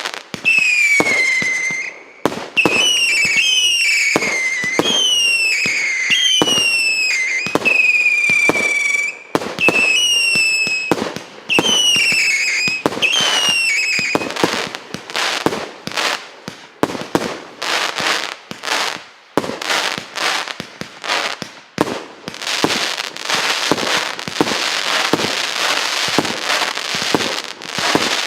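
143-shot, 1.25-inch firework cake firing. For about the first half, each shot gives a whistle that drops in pitch, one every second or so, mixed with bangs. After that come rapid bangs, turning into dense crackling near the end.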